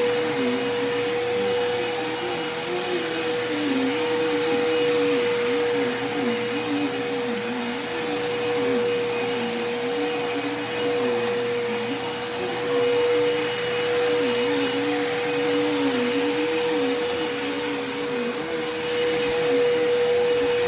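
Bissell PowerForce Turbo upright vacuum cleaner running, a steady motor whine over rushing air, with a lower hum that rises and falls every second or two.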